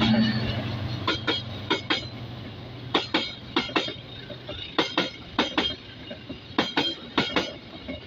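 Passenger train carriages rolling past, their wheels clacking over rail joints in quick pairs as each bogie's axles cross, a pair every half-second to second. A low engine hum fades out in the first second or two.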